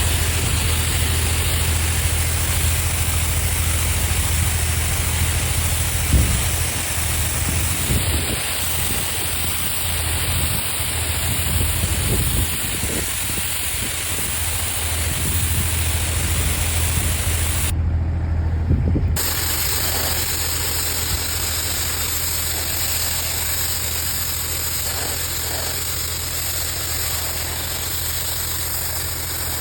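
Tractor engine running steadily, driving a power washer from its rear shaft, under the constant hiss of the high-pressure water jet. The hiss drops out briefly about two-thirds through while the engine keeps running.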